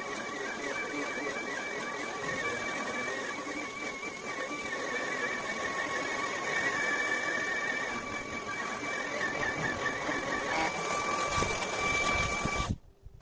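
Hart 20 V cordless stick vacuum with a brushless motor running steadily: a motor whine over rushing air. It cuts off suddenly near the end.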